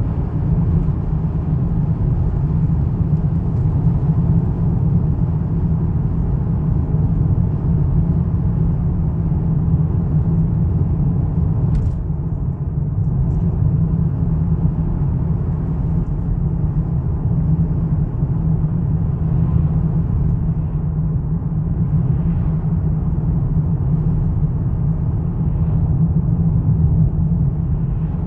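Volvo V70's naturally aspirated 2.4-litre inline five-cylinder engine running steadily, a low, even rumble with no revving.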